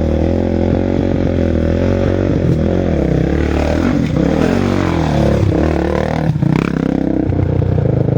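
Several racing motorcycle engines revving, their pitch rising and falling as the bikes go past, with one passing close about six seconds in. A steady engine note carries on near the end.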